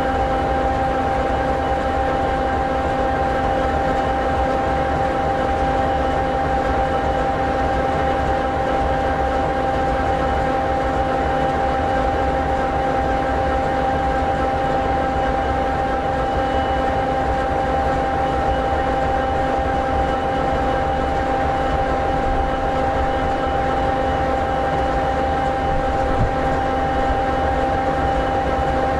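EMD SD60E locomotive's 16-cylinder, two-stroke, turbocharged EMD 16-710G3B diesel idling steadily: a low rumble with a few constant whining tones on top.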